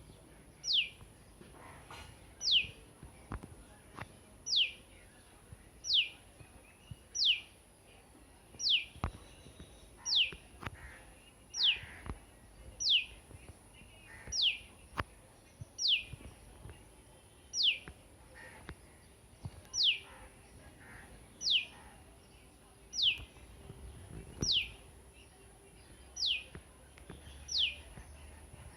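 A bird calling: a single high, clear whistle that slides down in pitch, repeated at a steady pace about every second and a half.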